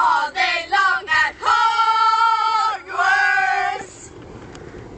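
Voices singing a comic sung chant, ending on two long held notes that stop about four seconds in.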